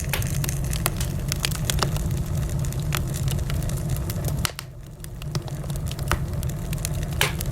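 Wood fire crackling: a steady low rumble of burning with frequent sharp pops and snaps from the logs. The rumble briefly drops away about four and a half seconds in, and a louder pop comes near the end.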